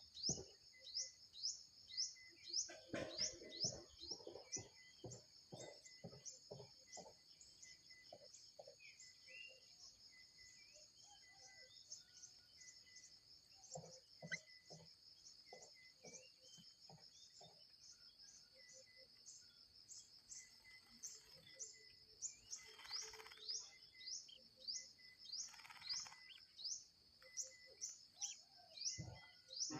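Birds chirping: quick, evenly repeated high chirps, about four a second, over a steady high-pitched drone, with a few softer lower calls.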